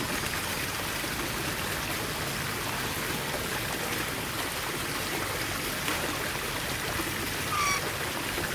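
Steady rush of running water, like a stream. Near the end comes a single short, slightly falling bird chirp.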